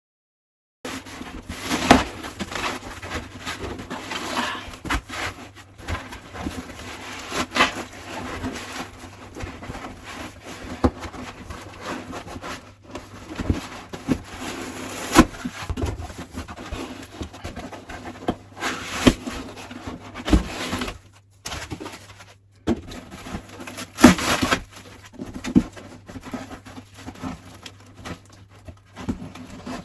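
A cardboard box and its packing being handled: irregular rustling and crinkling with scattered sharp knocks and taps, several louder thumps along the way.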